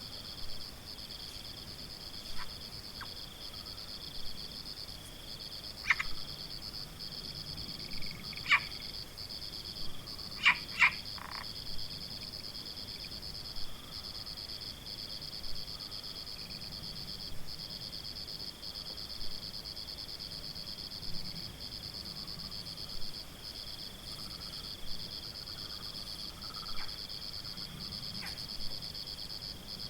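Forest ambience: a steady high-pitched insect trill runs throughout, with short sharp animal calls repeating about every two seconds and a quick cluster of them about ten seconds in.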